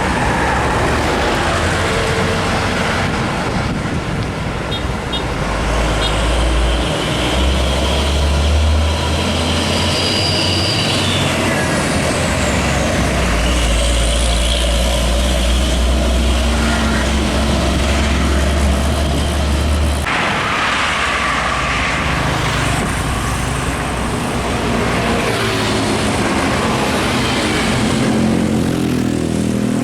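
Heavy diesel trucks passing on a road, with a deep engine rumble and tyre noise over steady traffic noise; the rumble is strongest through the middle and cuts off suddenly about two-thirds of the way in.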